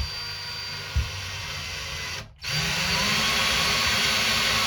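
Power drill driving a long wood screw into a plaster-and-lath wall. The motor runs steadily with a knock at the start and another about a second in, cuts out briefly a little after two seconds, then runs again louder with its pitch rising.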